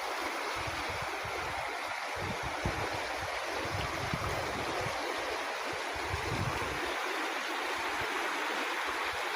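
Steady rush of flowing water, as of a stream or small river, with low rumbles coming and going underneath.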